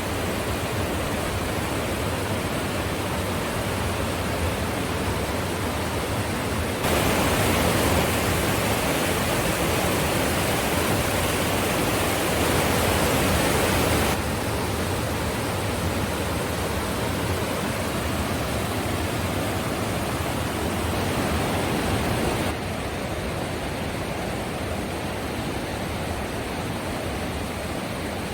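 Steady rushing of river water, a waterfall or rapids, without pause. Its loudness jumps up abruptly about a quarter of the way in, drops back about halfway, and drops again later.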